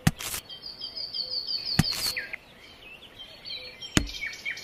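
Small birds chirping in quick, repeated high calls, with a few sharp clicks or knocks: one at the start, a pair about two seconds in, and a louder one about four seconds in.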